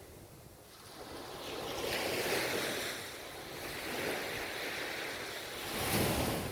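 Ocean surf: waves breaking and washing up the shore in several swelling surges, the loudest about six seconds in.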